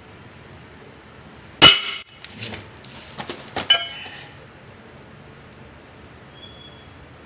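A hammer blow on metal about one and a half seconds in, a single sharp ringing clang. It is followed over the next two seconds by a string of lighter metallic clinks and taps, some ringing briefly.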